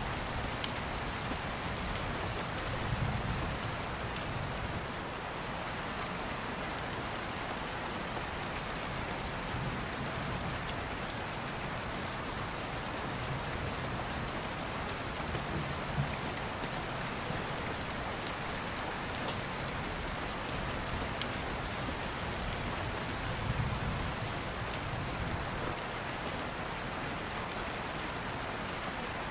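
Steady, even rain, with scattered sharp crackles from an open fire and a few soft, low rumbles of distant thunder.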